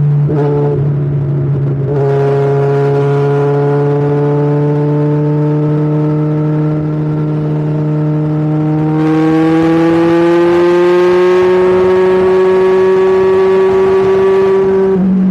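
Kawasaki Ninja 1000's inline-four engine and exhaust pulling under way. After a brief break in the note just after the start, the pitch climbs slowly as it accelerates, growing louder from about the middle.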